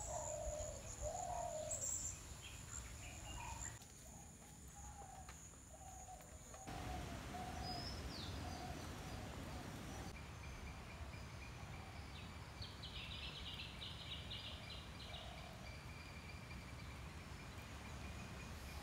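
Birds calling, among them a run of short, low, dove-like cooing notes repeated at a steady pace. A brief chatter of higher notes comes in about two-thirds of the way through.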